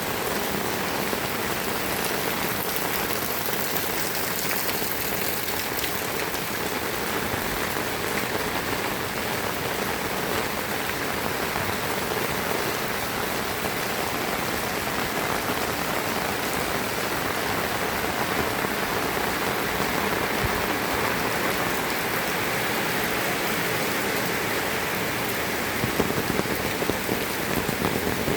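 Heavy rain falling steadily, with sharper spatters of drops striking close by near the end.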